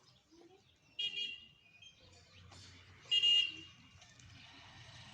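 Two loud, shrill bird calls about two seconds apart, the second the louder. In the last second a vehicle's noise rises.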